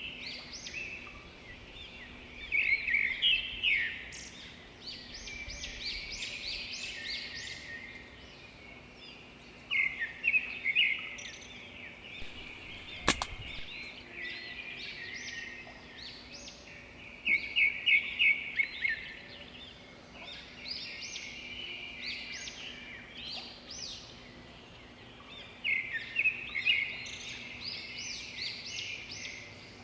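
A flock of small birds chirping in busy clusters, rising and dropping off every few seconds, with one sharp click about halfway through.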